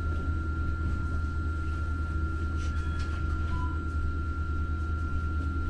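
Heard from inside a Muni Metro light-rail car: a steady low rumble with a constant thin high whine over it, and one short faint beep about three and a half seconds in.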